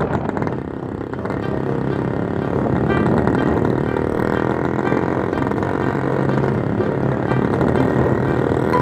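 Motorcycle engine running steadily while riding, with a constant low engine note and road noise.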